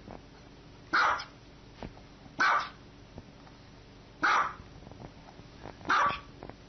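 Small white dog barking four times, single sharp barks spaced about a second and a half apart.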